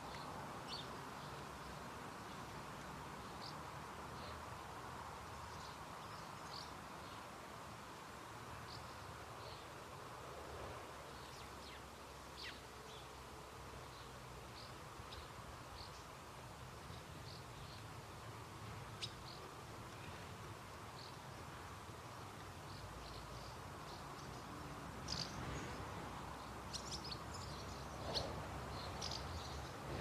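Faint garden ambience: a steady low hum with scattered short, high-pitched calls from small birds, coming more often near the end.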